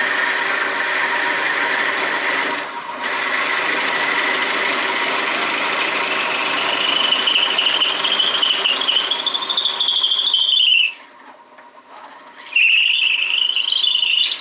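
Shopsmith running at 800 RPM with a Forstner bit boring into the end of a walnut handle blank, a steady machine noise joined partway through by a high squeal as the bit cuts. The sound drops away suddenly about eleven seconds in, and the high squeal returns briefly near the end.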